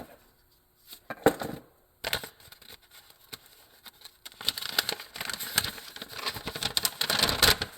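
Handling noise from close by: a few sharp clicks and knocks, then a few seconds of dense rustling and crackling, as of something being picked up and unwrapped.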